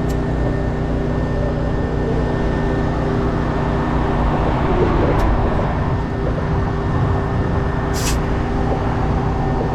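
Truck engine idling steadily while its air system builds pressure, with a short hiss about eight seconds in.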